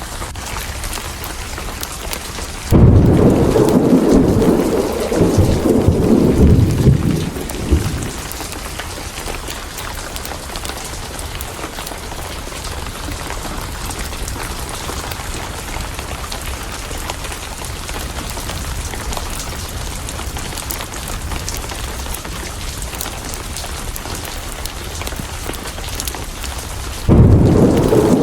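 Steady heavy rain falling throughout, with a loud clap of thunder about three seconds in that rumbles on for about five seconds, and a second thunderclap starting near the end.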